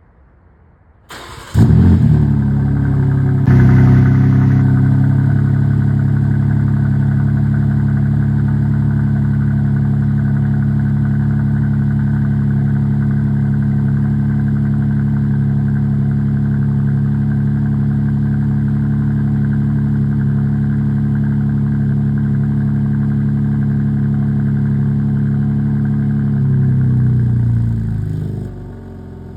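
BMW G80 M3 Competition's twin-turbo straight-six cold-started in Sport Plus mode: a brief crank, then it catches with a loud flare about a second and a half in and settles into a steady, high cold idle. Near the end the pitch drops and the engine sound falls away.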